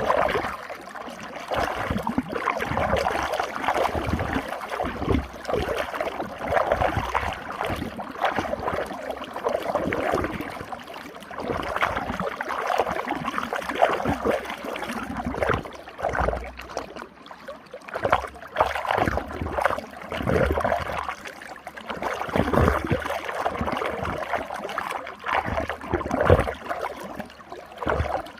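Running water swirling and gurgling in a whirlpool, splashing unevenly with an irregular rise and fall in loudness.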